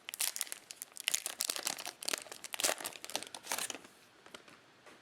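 Cellophane wrapper of a trading-card pack crinkling and crackling as it is handled and torn open, dense until about four seconds in, then only a few faint crinkles.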